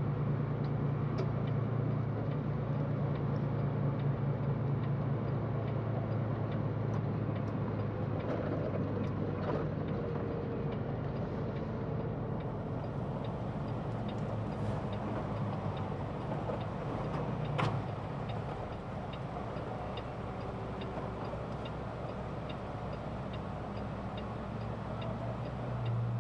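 Semi-truck engine running steadily, heard from inside the cab, with faint regular ticking.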